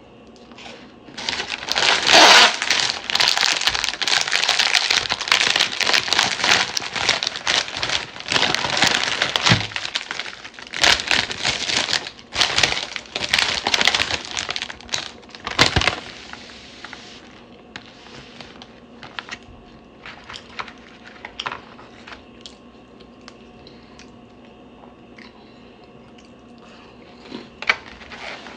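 Plastic cookie packaging being crinkled and torn open, a dense crackling for about the first two-thirds that thins to scattered crinkles near the end.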